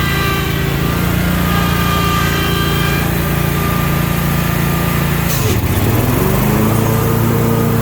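Stand-on zero-turn lawn mower engine running steadily; about five and a half seconds in its pitch dips sharply, then comes back up and settles at a higher steady speed.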